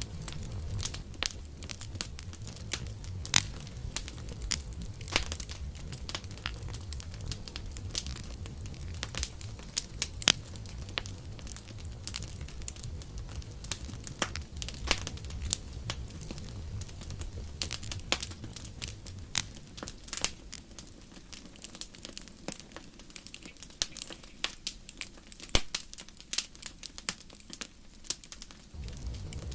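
Wood campfire crackling, with frequent sharp pops and snaps over a low rumble of flame. The rumble fades for several seconds near the end, then returns.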